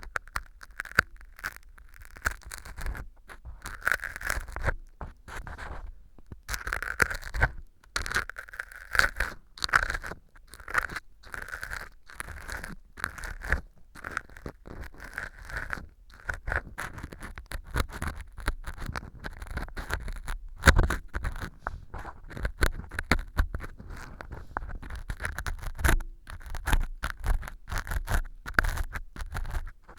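Ear pick scraping and crunching pieces of dried wheat gluten (fu) glued as fake earwax inside a transparent ear-canal tube. It makes a dense run of close, crackly scratches and clicks. The fu is stuck on hard with glue, so the pick grates at the hardened bits.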